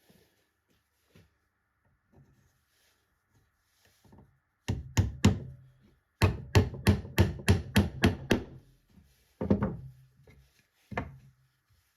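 Hammer striking wood in short runs: a few blows, then a quick series of about nine at roughly four a second, then a few more.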